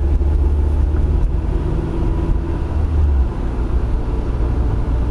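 Car engine and road noise heard from inside the cabin as the car accelerates toward 50 km/h, a steady low rumble that eases off about three seconds in.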